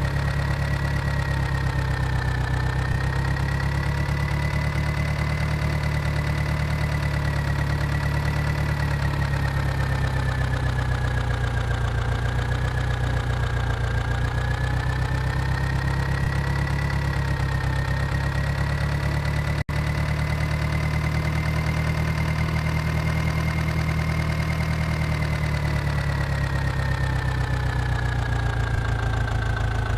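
John Deere tractor's diesel engine running steadily at low speed, with a thin high whine over the engine note; the engine speed drifts slightly up and down.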